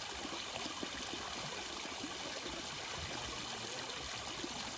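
Running water: a steady rush and trickle, even and unbroken.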